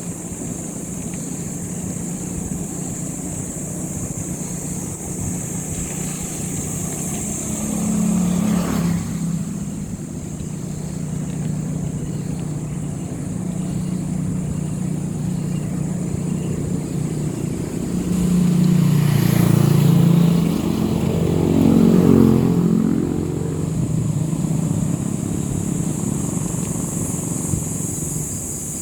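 Motor vehicle engine running steadily on the road. It swells louder with a shifting pitch about eight seconds in, and again for several seconds from about eighteen seconds in, like engine revs changing or vehicles passing close.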